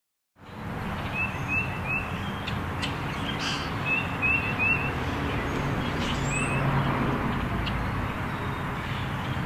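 Outdoor birdsong: short high chirps come in quick runs of three or four, over a steady low background rumble. The sound starts about half a second in.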